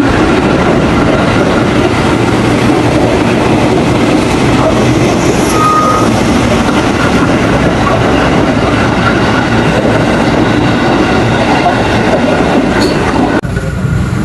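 Electric commuter train running: a loud, steady rumble and rattle of rails and carriage that drops away shortly before the end.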